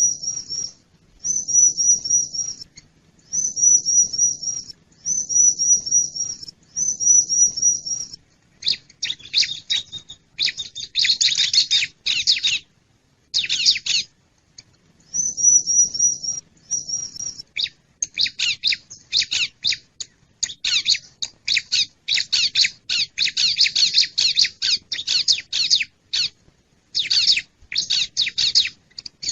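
Bar-winged prinia (ciblek) song played as a trapping lure call: a run of short, high, wavering trilled phrases about a second and a half each, then long bursts of rapid, scratchy chattering with brief gaps.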